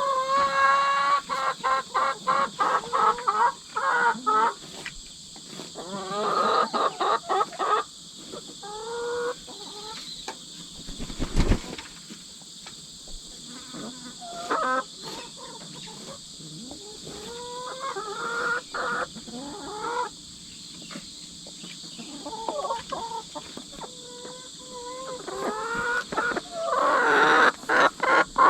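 Young hens clucking and calling over and over in bursts of rising and falling calls, loudest near the start and again near the end, with a single knock about eleven seconds in. A steady chorus of insects sounds underneath.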